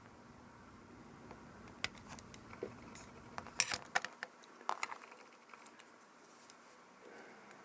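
Small metal tools and tiny camera parts clicking and clinking against each other and the work surface during disassembly of a compact digital camera. It is a scattered run of light taps, with the loudest cluster a little past the middle.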